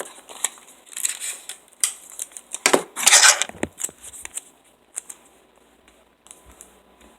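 Handling noises: a run of sharp clicks and crackles, with a short rushing scrape about three seconds in that is the loudest sound.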